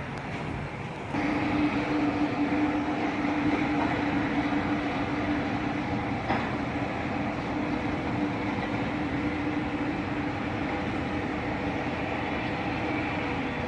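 A large machine or vehicle running steadily with a droning hum that cuts in abruptly about a second in and holds, easing slightly near the end.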